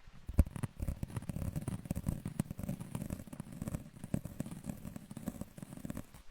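A dense run of small crackles and taps, many a second, that starts and stops abruptly.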